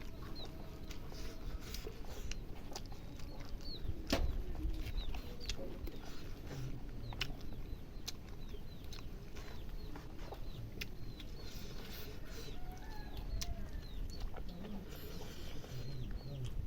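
Scattered chewing and mouth clicks from someone eating, with short bird chirps in the background.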